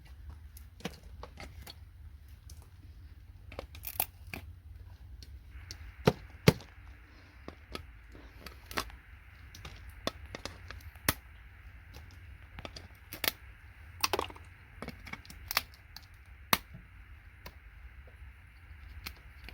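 Hand tools clicking and knocking against a circuit board as components are prised off it: irregular sharp knocks, the loudest two about six seconds in.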